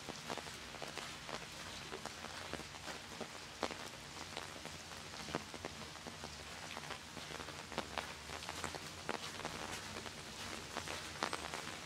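Steady rain falling on wet pavement: an even hiss with many close, distinct drops ticking at irregular intervals.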